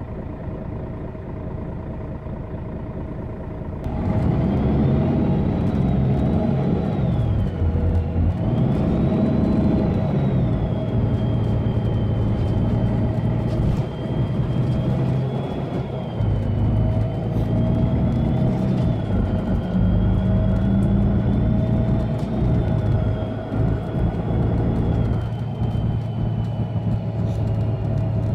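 Mercedes-Benz Citaro bus's OM457hLA diesel running steadily, then from about four seconds in pulling hard, its engine note rising and falling several times. A loud turbo whistle rises and falls with it.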